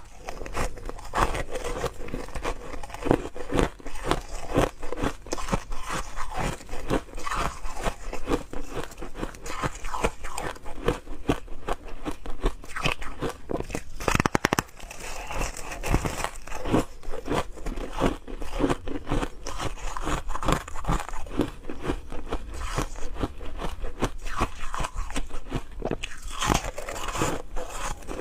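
Ice being bitten and chewed close up: a steady run of crisp, irregular crunches and cracks as the cubes break between the teeth.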